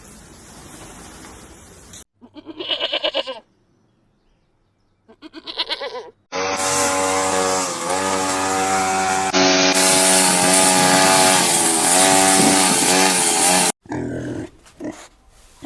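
Bleating: two short, quavering bleats, then a loud, drawn-out call whose pitch wavers for about seven seconds. A steady hiss comes first, for about two seconds.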